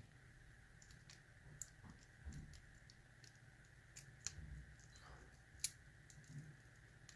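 A few faint, scattered small clicks and ticks of a lock and lock-picking tools being handled, over quiet room tone.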